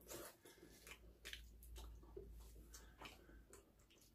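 Very faint eating sounds: chewing, with a scatter of small soft clicks over a low hum.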